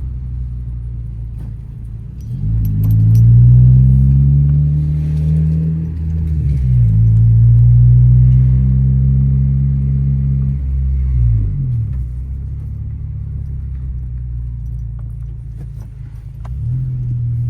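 2013 Honda Civic Si's 2.4-litre four-cylinder engine heard through an Invidia N1 catback exhaust while driving. It accelerates from about two seconds in, shifts up and pulls again, then backs off around twelve seconds in to a low drone, and revs up again near the end.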